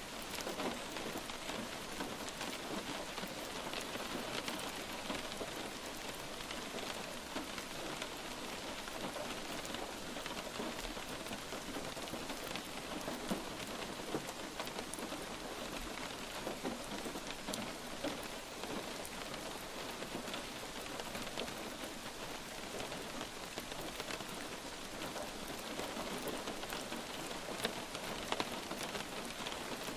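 Steady light rain falling on a surface, a dense even patter of many small drops.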